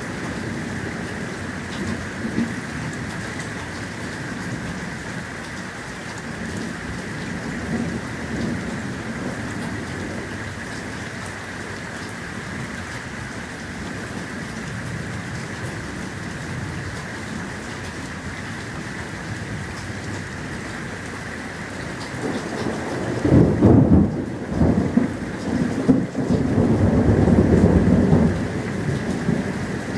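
Thunderstorm: steady rain hissing, then about three-quarters of the way through a loud thunderclap that rolls on as rumbling thunder for several seconds.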